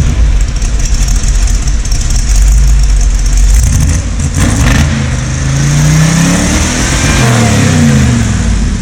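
Cammed Ford 351 Windsor V8 in an F100, warmed up and running through its exhaust: a steady low rumble at idle, then revved once about halfway through, the pitch rising for a couple of seconds and falling back toward idle near the end.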